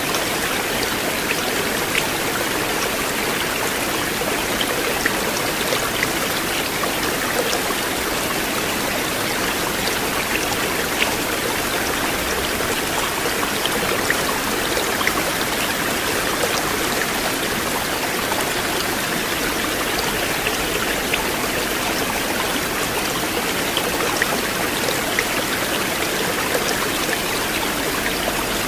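River water flowing steadily over stones, an even rushing sound with small splashes and drips now and then.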